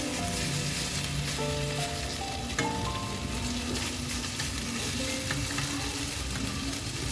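Boneless chicken thighs sizzling steadily in a frying pan as they brown in Korean fried-chicken sauce, with a single knock about two and a half seconds in.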